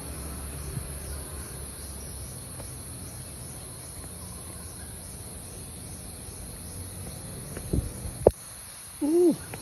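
Steady high-pitched insect chorus that keeps going unbroken. A couple of sharp knocks come about eight seconds in, and a short low voiced sound right at the end.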